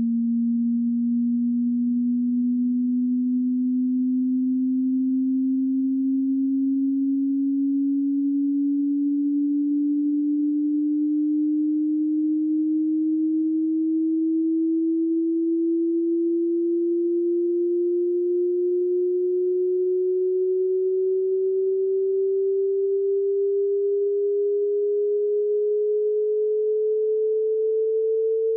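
A pure electronic sine tone gliding slowly and steadily upward in pitch, rising by about an octave, from a low hum to a higher tone, at a constant loudness.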